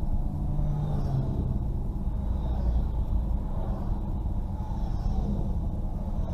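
Steady low rumble of motorcycle engines streaming past a car stopped at a crossing, picked up by the car's dashcam, with a slowly wavering engine note.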